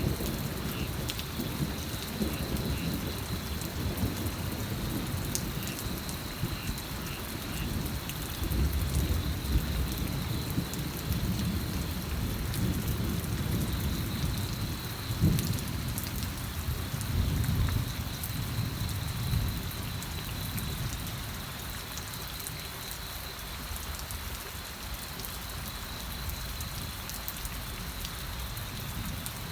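Steady rain falling and pattering, with low rolling thunder swelling through the middle and easing off near the end.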